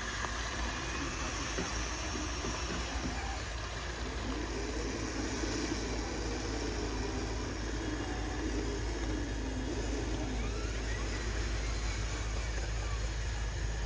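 Small electric motors and gearboxes of radio-controlled model trucks whining, the pitch rising and falling as they speed up and slow down, over a steady low rumble.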